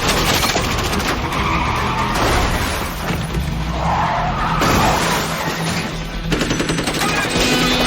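Action-film car chase soundtrack: score music mixed with tyres screeching, car engines and rapid gunfire, the gunfire thickest near the end.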